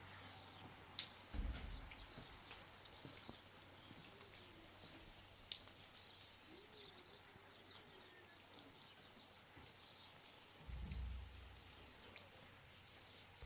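Faint rain dripping in scattered ticks, with a few small bird chirps. Two brief low rumbles come about a second and a half in and near the end.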